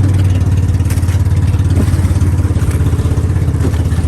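A motor vehicle's engine running steadily, a loud low hum with a rapid even pulse.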